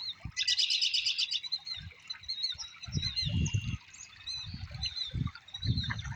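Small songbirds chirping, with a fast, dense trill about half a second in. In the second half there are several low rumbles.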